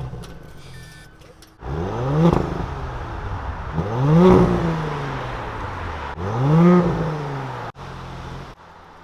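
Audi S5's V6, stock with its factory exhaust, blipped three times from idle, each rev rising and falling in pitch, idling between the revs and cutting off near the end.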